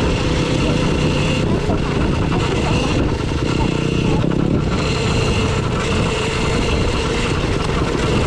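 Dirt bike running steadily along a trail, with wind noise on the microphone.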